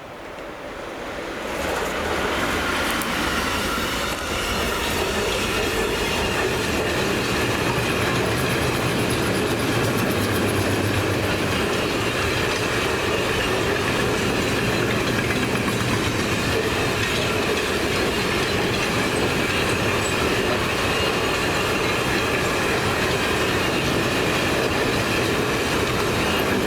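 Train rolling past close by, its sound building over the first two seconds and then holding steady and loud, with a ringing squeal from the wheels on the rails.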